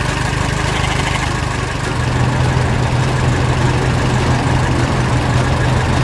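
Heavy machine engine running steadily with a low hum, getting a little louder about two seconds in.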